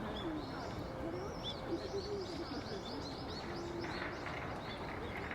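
Small birds twittering: many short, high chirps repeated quickly, with faint human voices murmuring in the background.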